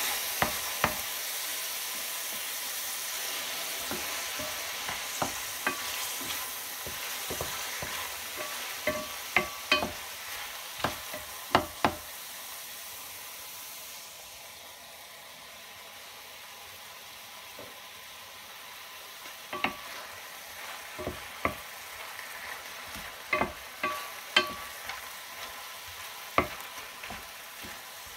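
Button mushrooms sizzling in a stainless steel frying pan while a wooden spoon stirs them, knocking and scraping against the pan now and then. About halfway through, a little water is poured in and the sizzle drops to a much quieter simmer, with a few more spoon knocks near the end.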